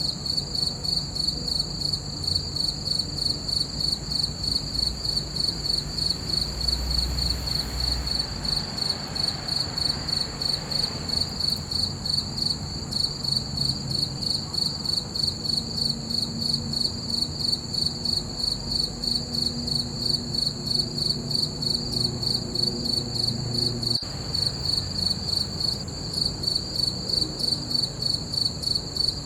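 Crickets chirping in a steady, even rhythm of about three high-pitched chirps a second.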